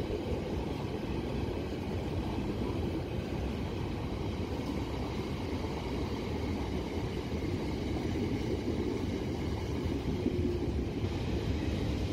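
Steady low rumble and hum of an electric passenger train at the station, with no sudden clanks or horn.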